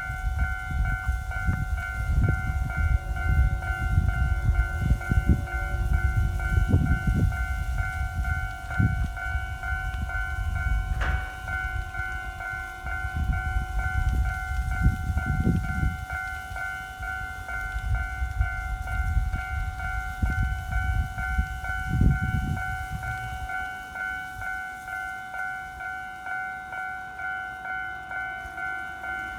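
A KiHa 40 series diesel railcar passing over a level crossing: a heavy low rumble with repeated knocks of its wheels over the rail joints, dying away about 23 seconds in. Over it the crossing's electronic warning bell keeps up its steady two-tone dinging, about two dings a second.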